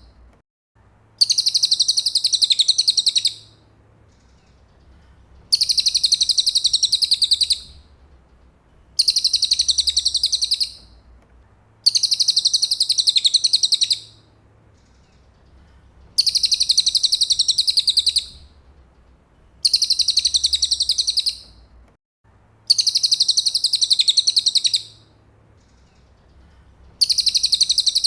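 Cililin song birds' recorded song: a fast, high-pitched trill lasting about two seconds, repeated roughly every three and a half seconds. It is a looped training recording of the kind kept to teach a white-rumped shama new phrases.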